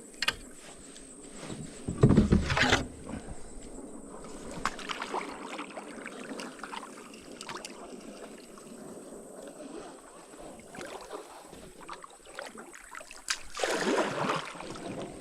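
Paddling a small boat such as a kayak or canoe on a creek: water sloshing under paddle strokes, with scattered knocks. There are two louder sounds, one about two seconds in and one near the end.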